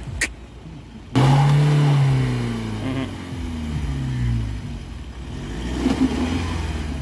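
A short knock, then about a second in a Mahindra Scorpio's engine revs up suddenly as it climbs a rutted mud slope. The pitch sags slowly under the load and picks up again near the end.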